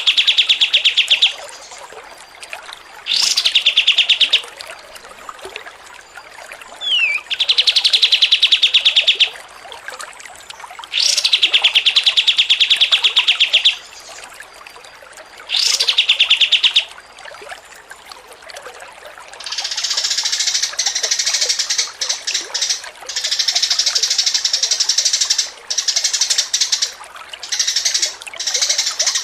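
Songbird song: rapid trills of quickly repeated notes, each lasting one to two seconds and coming every few seconds. From about twenty seconds in, they give way to a denser, higher chattering in longer runs with short breaks.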